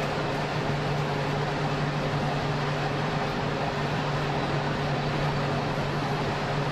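Electric train running steadily along the track, heard from the cab: an even wheel-and-rail rumble with a constant low electrical hum.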